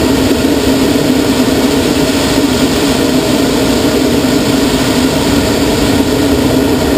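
Steady, loud rush of airflow over a glider in flight, with a constant low hum, during a loop into a roll.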